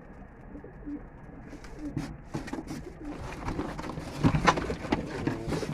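Domestic pigeons cooing, with a scatter of short clicks and rustles from about two seconds in.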